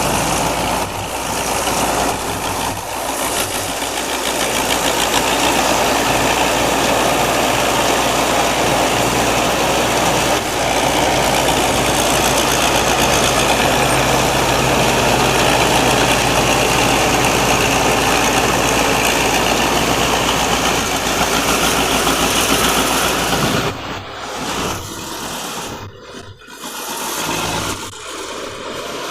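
A rice combine harvester's Isuzu 6M61 six-cylinder diesel engine running steadily, with the dense machine noise of the harvester working. After about 24 seconds the sound drops and wavers, with several sudden dips.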